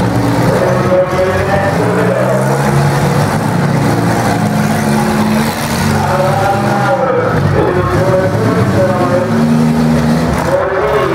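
Demolition derby cars' engines running and revving in the arena, several engine notes overlapping and shifting pitch as the drivers push against each other.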